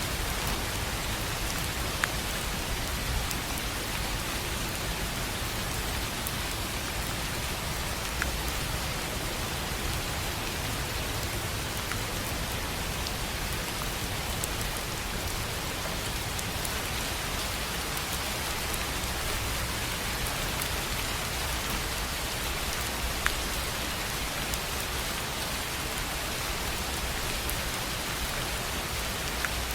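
Steady rain falling on a tin roof, with now and then a single louder drop striking sharply.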